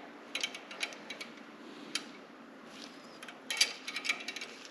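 Hand wrench tightening the hex fittings on a 12-bolt rear axle assembly, making light irregular metal clicks and clinks, with a busier run of clicks about three and a half seconds in.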